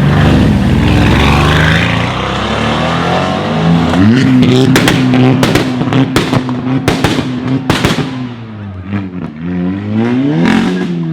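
Car engine and exhaust revving hard: the pitch climbs about four seconds in and is held high for several seconds with repeated sharp exhaust pops and crackles, then drops and revs up once more near the end.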